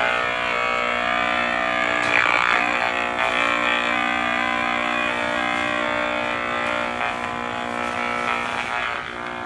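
GHz transducer turning a running microwave oven's leaking microwave radiation into a steady, harsh electrical buzz.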